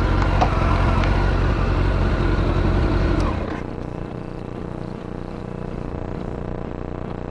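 Kawasaki ZZR1400 inline-four through a Yoshimura exhaust, running at raised revs and then dropping to a steady idle about three seconds in.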